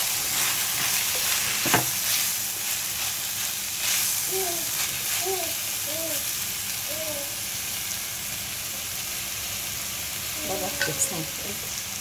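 Prawns in masala sizzling in a hot pan while being stirred with a spoon, with a sharp tap of the utensil against the pan about two seconds in.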